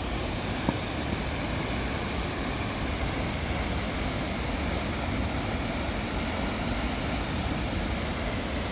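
Thika Falls waterfall: a steady rush of falling water close by, with a single brief tap about a second in.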